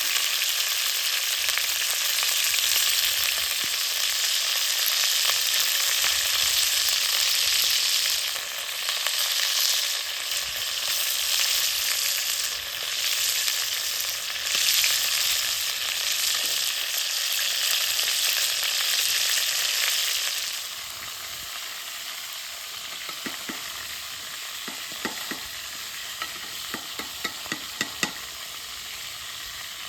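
Food sizzling and frying in a hot pan, with an even hiss. About two-thirds of the way through the sizzle drops noticeably quieter, and a few short clicks follow near the end.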